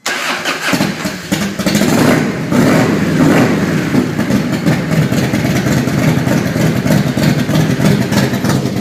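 1998 Harley-Davidson Fat Boy's 80 cubic inch V-twin starting up through Vance & Hines aftermarket exhaust, catching under a second in and then running steadily at idle.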